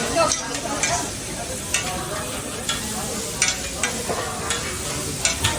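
Food sizzling on a hot cooking surface as it is stirred, with sharp, irregular clicks and scrapes of a metal utensil.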